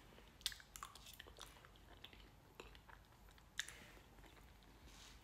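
Quiet, close-miked chewing of a soft mouthful of jacket potato with melted cheese and baked beans, with a few sharp clicks, the clearest about half a second in and about three and a half seconds in.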